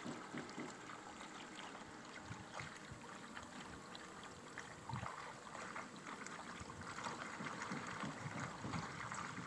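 Faint, irregular splashing and trickling of water, with no steady motor tone.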